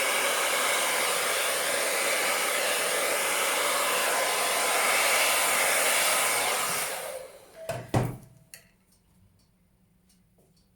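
Hair dryer blowing steadily, used to push thinned acrylic paint across a canvas in a Dutch pour. It is switched off about seven seconds in and runs down, followed by a couple of sharp knocks and a few faint clicks.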